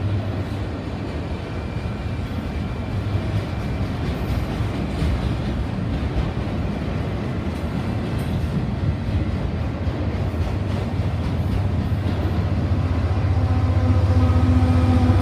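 Freight train autorack cars rolling past with a steady rumble of wheels on rail. About twelve seconds in, the drone of a mid-train Union Pacific diesel locomotive's engine comes in and grows louder toward the end.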